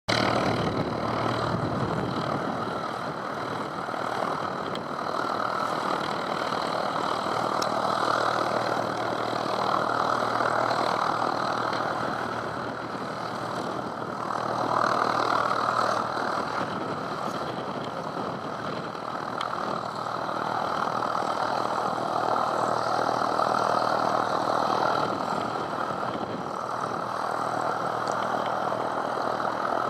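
Aircraft engine running steadily, under a rushing noise that swells and fades every few seconds.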